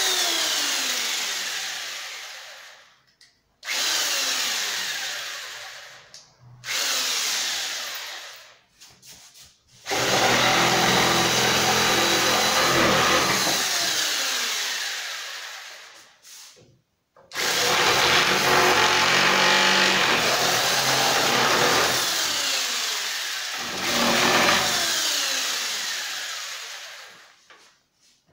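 Electric circular saw (Einhell Bavaria BPS 600E) switched on and off over and over: the motor and blade come up to full speed with a sudden start, run for a few seconds, then spin down with a falling whine once released. The two longest runs come near the middle and near the end.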